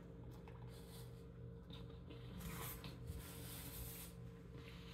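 Quiet eating sounds: a man chewing a mouthful of instant ramen noodles, then a paper napkin rustling as it wipes his mouth from about two and a half to four seconds in, over a steady low hum.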